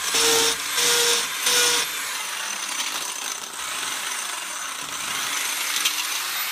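A small electric motor whirs in three short bursts over the first two seconds, then a steadier, weaker whirring noise continues.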